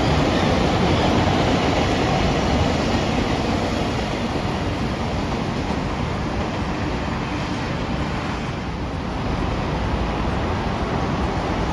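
A passing train: a steady rumble and rush of wheels on the rails that eases slightly about eight seconds in, then picks up again.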